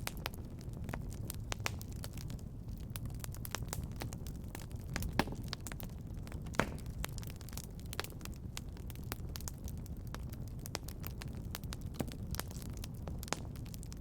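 Fireplace fire crackling over a low steady rumble, with frequent small pops and two louder pops about five and six and a half seconds in.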